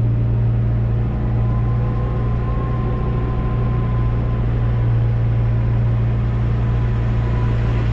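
Diesel engine of a farm loader machine running steadily, a constant low drone with a faint high whine over it.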